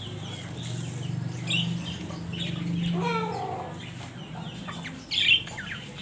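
Caged birds chirping and calling, with a louder, sharper call about five seconds in, over a steady low hum.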